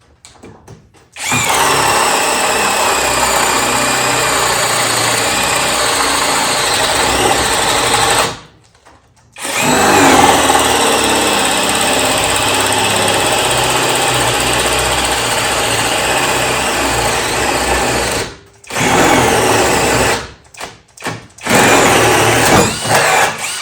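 A DEKOPRO 20-volt cordless drill bores a 1¼-inch wood bit through a 2x4, its motor running under load. It runs in two long stretches of about seven and nine seconds with a brief stop between them, then in several short bursts near the end. The bit is somewhat dull.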